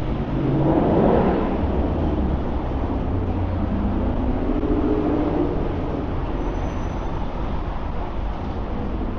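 Street traffic with a steady low engine rumble; a vehicle passes close about a second in.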